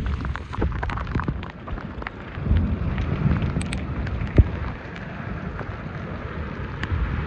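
Heavy monsoon rain pouring down, picked up on a rain-soaked phone: a steady hiss over a low rumble, with scattered sharp taps of drops striking the phone and one louder tap about four seconds in.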